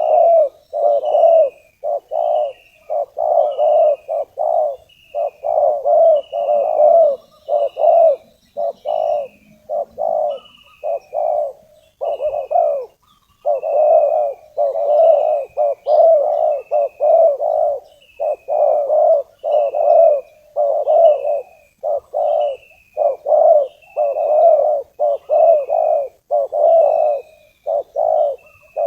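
Spotted dove cooing over and over in short repeated phrases, about one a second with brief pauses: a decoy dove's call used to lure in wild spotted doves.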